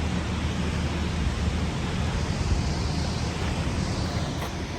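Steady rushing of a large waterfall, an even roar of falling water, with a low steady hum beneath it.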